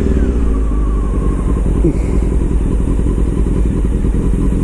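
Motorcycle engine running steadily with a fast, even low pulsing.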